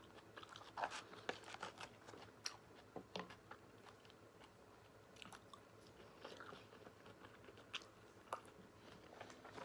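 Faint, close-miked chewing and eating sounds: scattered small wet mouth clicks and smacks as food is chewed.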